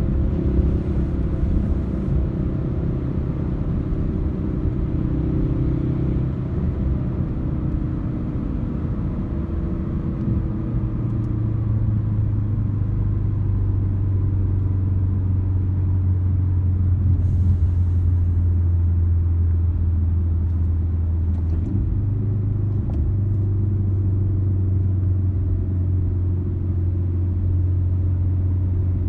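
Ford Focus RS's turbocharged 2.3-litre four-cylinder engine and road noise heard from inside the cabin as the car slows. The engine note shifts over the first ten seconds, then settles into a steady low drone.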